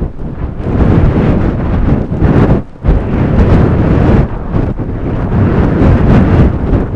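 Strong blizzard wind gusting hard against the microphone, a loud rushing buffet that swells and drops back in waves, easing briefly a few times.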